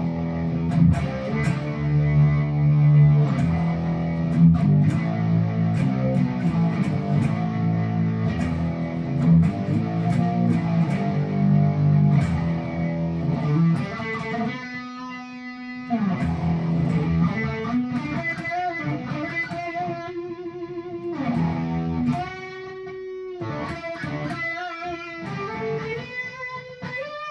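Electric guitar with a Seymour Duncan '59 bridge humbucker, played loud through a RAT distortion pedal. For about the first half it rings out heavy distorted chords, then a long held note and a sparser single-note line, quieter near the end.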